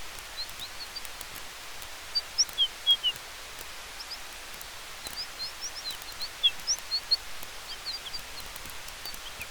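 A small bird chirping in quick, high, short notes, in two flurries, over a steady hiss of wind and campfire with a few faint crackles.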